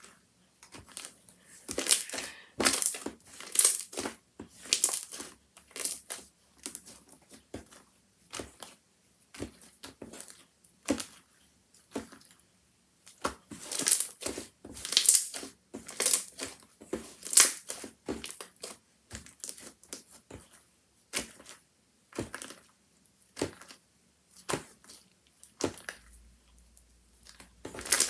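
Handmade slime being squished and pressed by hand, giving irregular sharp pops and crackles as air pockets burst, some loud and some faint, with short pauses between.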